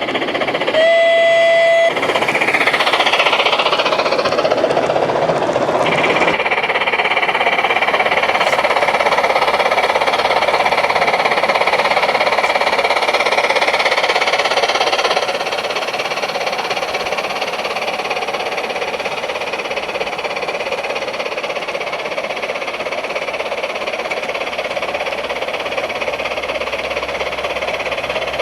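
Steam sound system of a Gauge 1 Märklin Gt 2×4/4 Mallet model locomotive running: a short steady whistle about a second in, then continuous steam and running noise that drops to a quieter level about halfway through.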